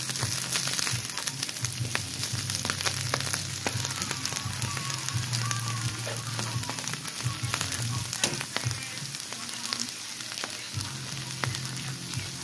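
Palm flowers and onion frying in a pan, a steady sizzle, stirred with a metal spoon that clicks and scrapes against the pan again and again. A low steady hum runs underneath.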